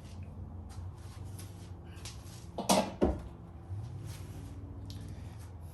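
Valve cover being lifted off a Pontiac 326 V8 and handled, with two sharp metal clunks in quick succession about three seconds in, over a steady low hum.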